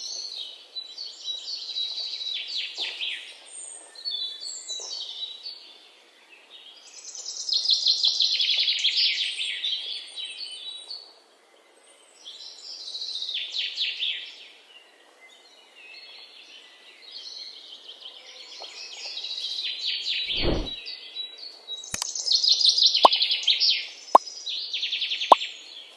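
Songbird singing in bouts of rapid trilled phrases, each a few seconds long with short pauses between. A dull thump comes about twenty seconds in, followed by a few sharp clicks.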